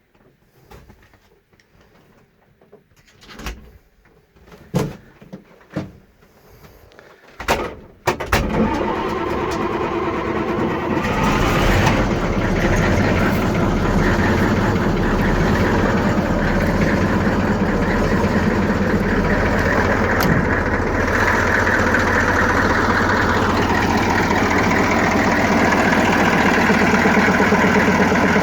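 A few short thumps, then the Magirus Deutz A6500's Deutz F8L614 air-cooled V8 diesel catches from a cold start about eight seconds in, picks up briefly and settles into a steady idle.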